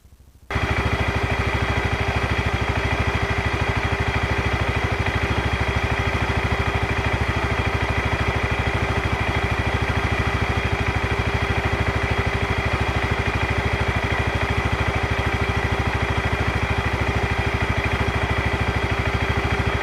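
ATV engine idling steadily with an even, rapid firing pulse, close and loud; it starts abruptly about half a second in.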